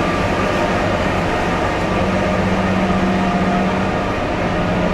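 Steady mechanical drone of a narrow-gauge train standing at the platform, a low hum with a slightly stronger tone from about two to four seconds in.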